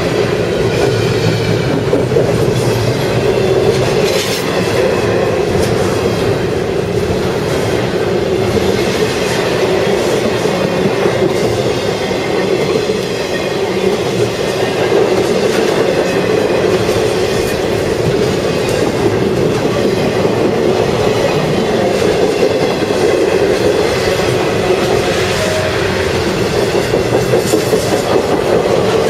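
CSX intermodal freight train's cars rolling past, a steady loud rumble of steel wheels on rail with clacking over the rail joints and faint high wheel squeal now and then.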